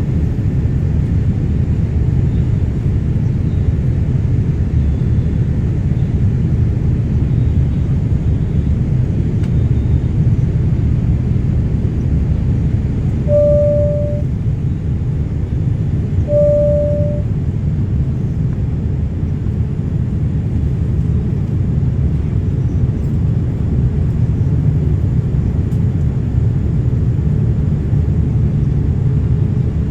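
Jet airliner engine and airflow noise heard inside the passenger cabin after takeoff: a steady low rumble. Two short single-pitched tones sound about three seconds apart, about halfway through.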